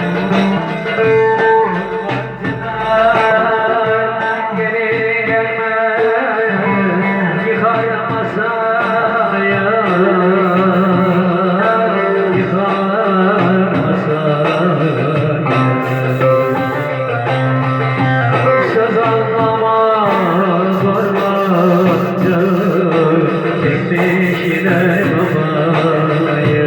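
Electric bağlama, the Turkish long-necked lute, playing a Turkish folk song melody, with a voice singing along.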